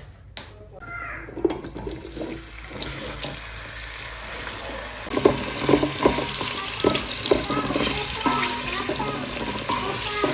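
Running water hissing steadily, louder from about five seconds in, with a series of short knocks and clinks over it.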